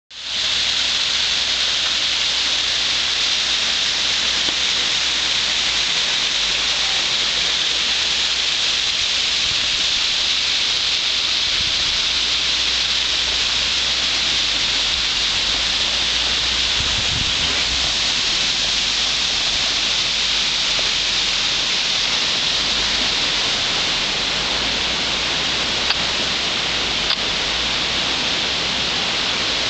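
Waterfall: water falling and splashing in a loud, steady rush that does not change.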